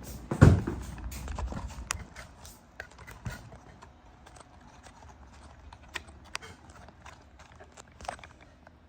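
A loud thump about half a second in, then scattered knocks and clicks.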